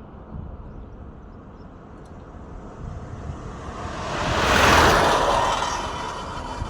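A truck drives past, its tyre and engine noise swelling to a peak almost five seconds in, then fading, over a low steady traffic rumble.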